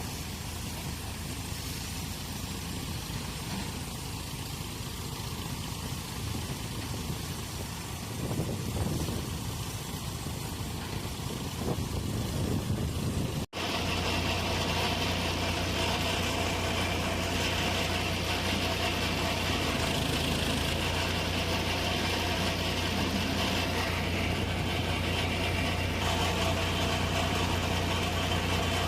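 Eicher Pro 6025T tipper truck's diesel engine running. It breaks off for a split second about halfway through, after which the engine's drone is louder and steadier, with a strong low hum.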